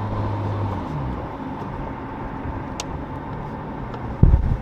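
Toyota Chaser engine running while the car is driven, heard from inside. A steady hum fades about a second in, there is a brief rise in pitch, and then it runs lower and rougher, with a few loud low thuds near the end.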